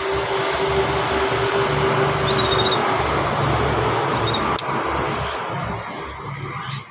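A vehicle passing close by: loud rushing engine and road noise with a low rumble that swells up and fades away near the end. Two short, faint high bird chirps come through it.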